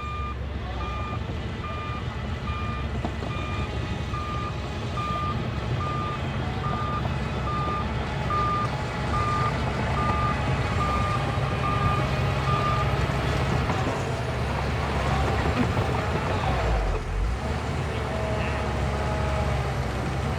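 Bulldozer's diesel engine running with its reversing alarm beeping evenly, a bit more than once a second; the beeping stops about two-thirds of the way through while the engine runs on, a little louder.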